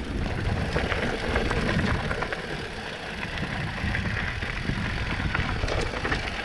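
Mountain bike rolling downhill on a gravel trail: tyres crunching over gravel and the bike rattling with many small clicks, over a low wind rumble on the microphone.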